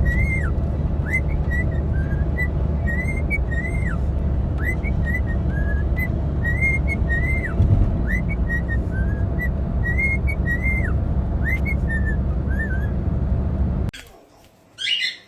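Parrot whistling a run of short chirping notes, several a second, some sliding up and down in pitch, over a loud steady low rumble. Both stop abruptly near the end.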